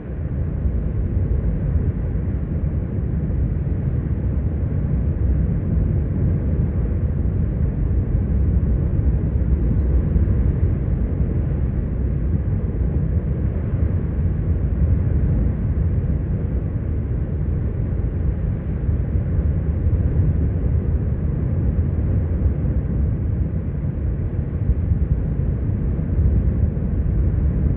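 Wind buffeting the microphone: a steady low rumble with no let-up.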